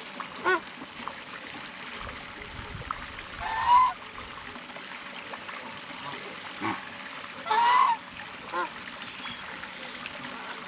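Large wading birds giving goose-like honking calls: a few short honks scattered through, and two longer, louder honks, one a few seconds in and one just past the middle.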